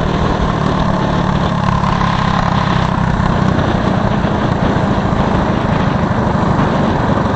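Mini bike's small engine running hard at a steady high speed, with a steady rushing noise over it.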